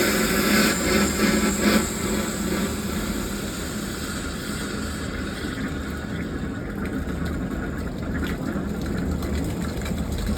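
Water rushing and sputtering from an opened outlet as trapped air purges from the lines of a newly filled water heater. It spits unevenly for the first couple of seconds, then settles into a steadier flow.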